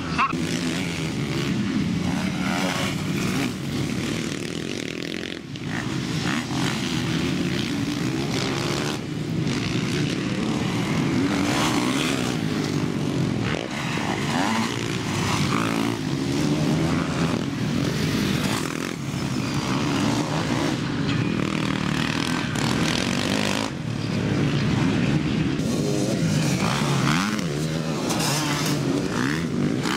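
MX1 motocross bikes racing on a dirt circuit, their engines revving up and down continuously as riders accelerate and shift.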